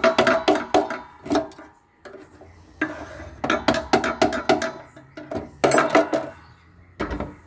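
Quick runs of metal-on-metal strikes, several a second, each with a short ring, as a stubborn part is worked loose inside a solar inverter being scrapped. One run ends about a second and a half in, a second runs from about three to six seconds, and a duller thud comes near the end.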